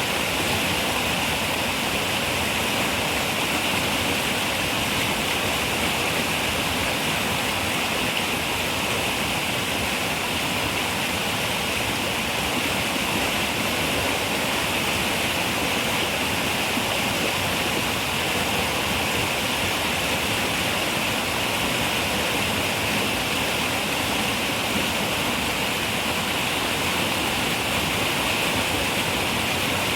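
River water running over rocks: a steady, unbroken rushing with a bright hiss and no change throughout.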